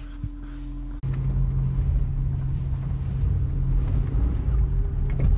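Honda S2000's F20C four-cylinder engine running at a low, even idle as the car reverses and creeps away slowly. A fainter steady hum comes first; about a second in, the engine sound cuts in much louder.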